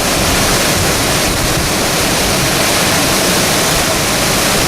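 Tropical-storm wind, sustained around 40–50 mph, blowing hard across the microphone over surf on the bay: a loud, dense, unbroken rush.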